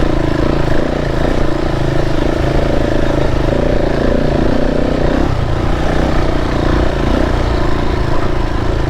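KTM 690 Enduro's single-cylinder engine running steadily as the motorcycle climbs a steep, rocky dirt track, with a change in pitch about five seconds in.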